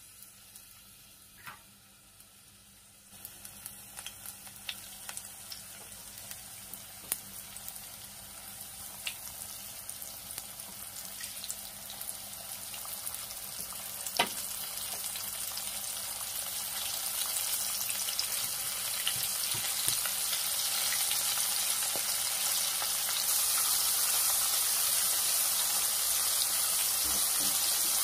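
Cornstarch-coated shrimp deep-frying in hot oil in a pan. A faint sizzle at first jumps to a louder, crackling sizzle about three seconds in as the shrimp go into the oil. It then grows steadily louder, with scattered pops.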